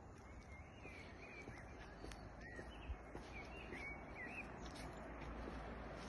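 Small birds chirping faintly, in short curling calls that come in two scattered runs, over a steady low background noise that slowly grows louder.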